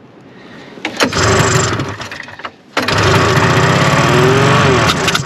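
1974 Arctic Cat Lynx's fan-cooled 340 two-stroke engine catching on a shot of sprayed fuel after a pull-start: it runs in two short spurts, one for about a second and a half beginning about a second in, then a longer one of about two and a half seconds, and each time it cuts out suddenly. It fires on the spray but won't keep running on its own.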